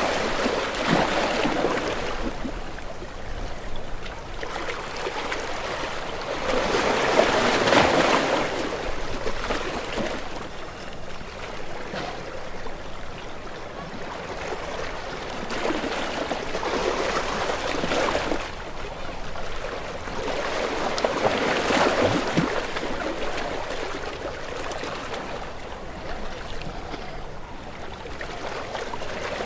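Ocean waves washing ashore, the surf swelling and breaking about every six to seven seconds, with fizzing foam between the breaks.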